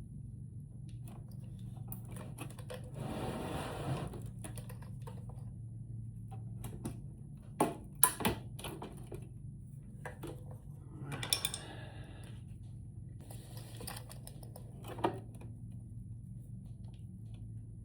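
Scattered clicks and a few sharp knocks of hands and tools working on a plastic lithium battery case, with two short scraping sounds, over a steady low hum.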